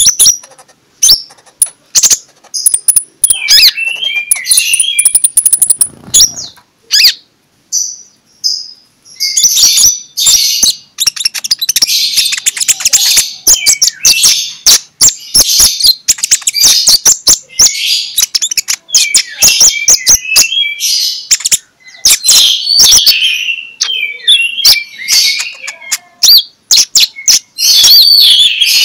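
Kolibri ninja (a sunbird) singing in long runs of rapid high chirps and twittering trills, mixed with sharp clicking notes, with a brief pause about seven seconds in.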